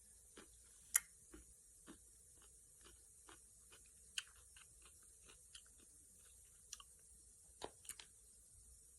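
Someone chewing crunchy cucumber salad close to the microphone: irregular soft crunches and mouth clicks, with louder ones about a second in, around four seconds and near the end, over a faint steady hiss.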